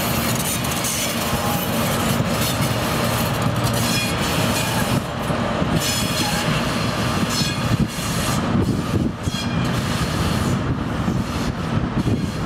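A train running on the rails: steady wheel-and-rail noise over a low drone.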